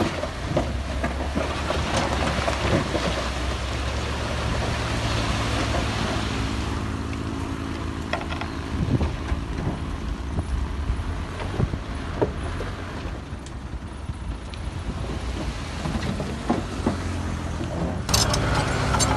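Heavy diesel earthmoving machinery running steadily, with scattered knocks and clatter; about a second before the end, a burst of sharp clinks, like rock striking metal.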